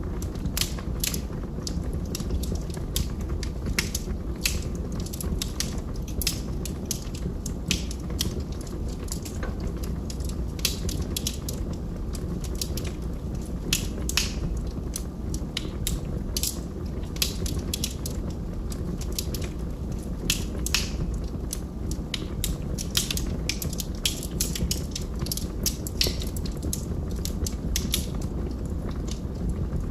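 Log fire in a fireplace crackling: many irregular sharp pops and snaps, several a second, over a steady low rumble of the burning wood.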